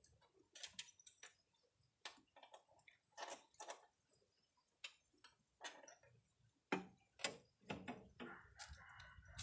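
Faint, irregular clicks and light knocks, one or two a second, like small hard objects being handled, over near silence.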